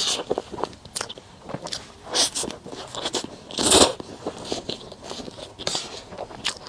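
Close-miked eating sounds: irregular bites and chewing of a soft matcha dessert, with one louder bite-like burst about three and a half seconds in.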